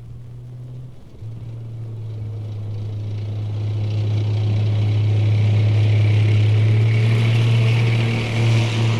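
M48 medium tank approaching, its engine drone growing steadily louder after a short break about a second in. Near the end, as it draws close, the sound swells and dips in quick pulses.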